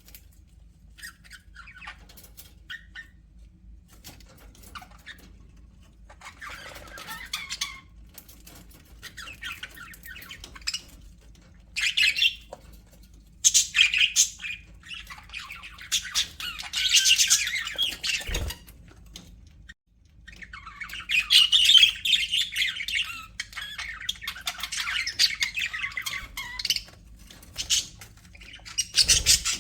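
Budgerigars chirping and chattering with squawks: scattered calls at first, then long dense bursts of warbling chatter through the middle and later part.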